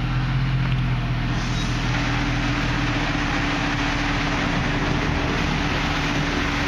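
2007 Chevrolet Tahoe's V8 idling steadily close to its tailpipe as the SUV creeps forward into the wash bay. A steady hiss comes up about a second and a half in.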